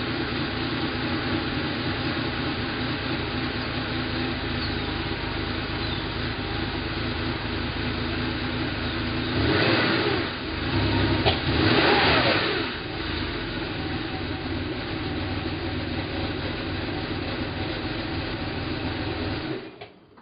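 1986 Porsche 911 3.2 Carrera's air-cooled flat-six idling on its stock exhaust shortly after a cold start, with two quick throttle blips about ten seconds in before it settles back to a steady idle. The sound stops just before the end.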